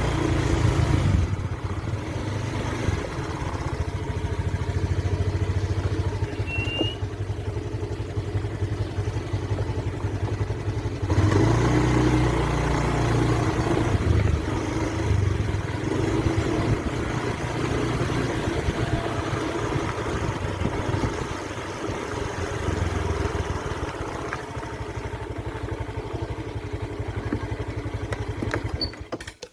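Engine running steadily, with a louder surge about eleven seconds in.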